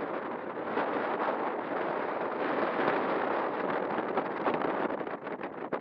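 Strong gusty wind buffeting the microphone, a rough steady rush that swells and dips.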